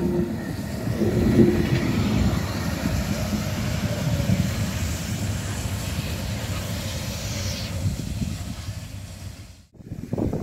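Pt47 steam locomotive and its train running: a steady rumbling noise with a high hiss over it that dies away about eight seconds in. The sound cuts off abruptly near the end.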